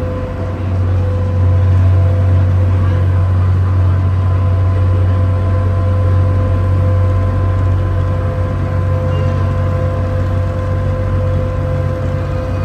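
Boat engine running steadily under way: a loud, even low drone with a faint steady whine above it.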